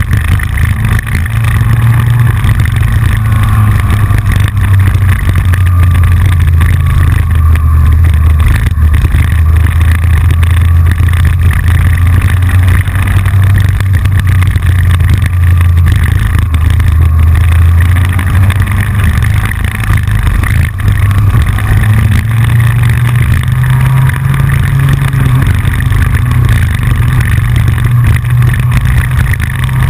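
Yamaha FJR1300 sport-touring motorcycle's inline-four engine running steadily at road speed, a loud low drone heard from a camera on the front fairing, its pitch rising somewhat for a while after about twenty seconds. Through it runs the clicking of the loosely fixed fairing camera mount.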